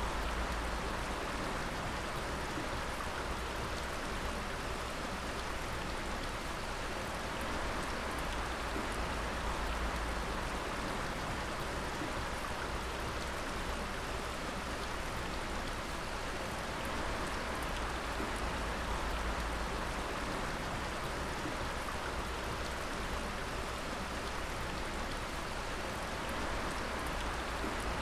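Water dripping heavily, many drops falling and splashing in a steady, dense patter, with a low rumble underneath.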